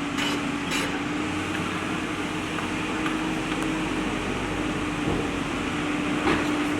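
JCB backhoe loader's diesel engine running steadily with an even hum, and a few brief knocks near the start and again near the end.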